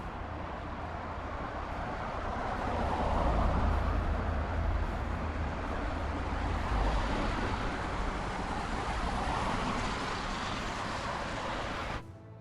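Heavy vehicle running, a rumbling mix of engine and road noise that grows louder a couple of seconds in and stays loud, then cuts off suddenly near the end.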